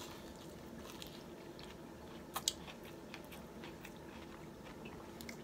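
A person chewing a mouthful of fried fast food, quietly, with small wet mouth clicks and two sharper clicks about two and a half seconds in.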